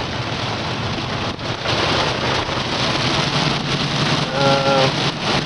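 Heavy, torrential rain pouring down and drumming on a vehicle, with an engine idling steadily underneath. A short hummed tone sounds briefly about four seconds in.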